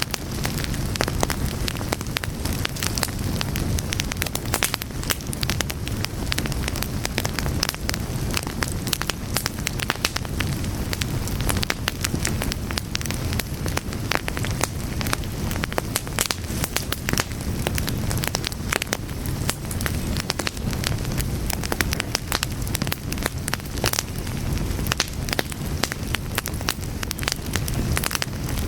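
Fire crackling steadily: many sharp, irregular pops and snaps over a continuous low rumble of flames.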